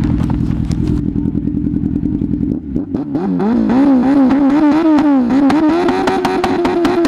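1998 Suzuki GSX 750 W inline-four motorcycle engine revving hard through a baffleless exhaust: a steady high-revving note, then, from under three seconds in, quick throttle blips about twice a second with sharp backfire pops and crackles.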